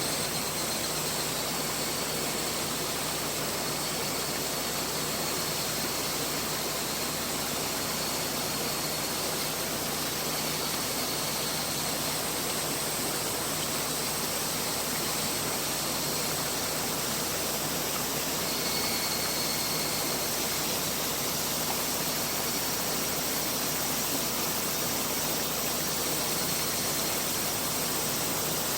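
Mountain river flowing: a steady rush of water. Faint thin high tones come and go over it, strongest a little past halfway.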